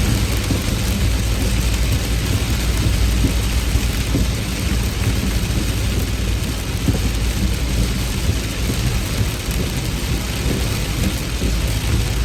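Heavy rain falling steadily, under a continuous low rumble of thunder.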